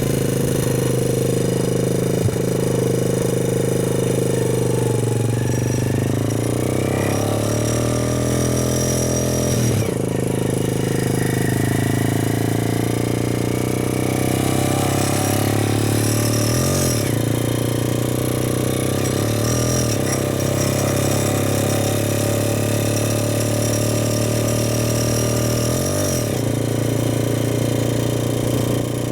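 Four-stroke motorcycle engine running steadily under way, its pitch dipping briefly and recovering a few times as the throttle eases and opens again.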